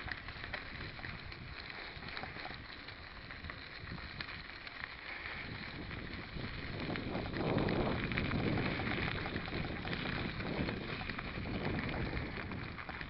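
Riding noise from a mountain bike on a dirt track: a steady crackle of tyres over the ground with small rattles, and wind on the microphone. It gets louder about seven seconds in.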